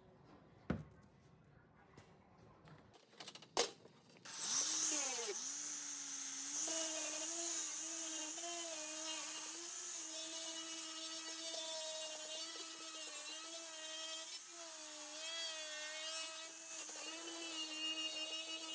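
Two handling knocks, then a small handheld power tool starts about four seconds in and runs steadily, its whine dipping and wavering slightly as it works under load.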